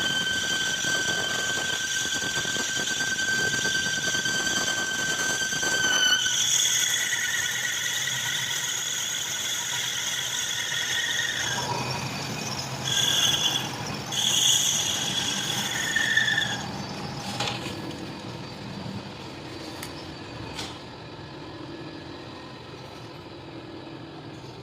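Metal-cutting tool squealing against a steel workpiece during machining, a steady high-pitched squeal that shifts pitch about a quarter of the way in. It breaks off into a few short squeals and then gives way to a quieter machine hum in the second half.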